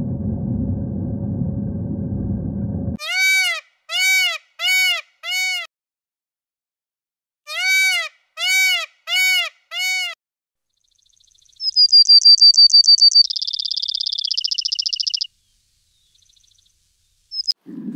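Animal calls: two runs of four short calls, each rising then falling in pitch, then a fast high trill that runs into a buzzing tone stepping down in pitch. A low rumbling noise fills the first three seconds and stops abruptly.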